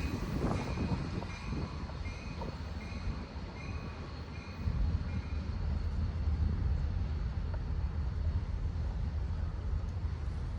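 Great Lakes Central Railroad train rolling past with a steady low rumble, growing louder about five seconds in.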